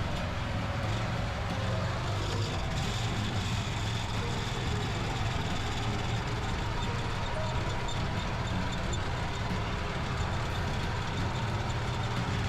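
Mini tractor engine running steadily with a low, even hum.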